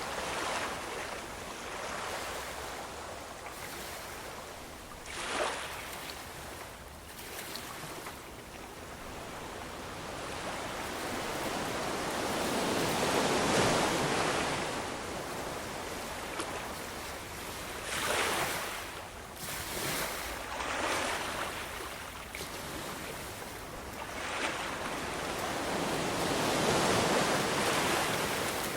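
Ocean waves breaking and washing up the shore, a steady wash that swells and fades, with larger surges about halfway through and again near the end.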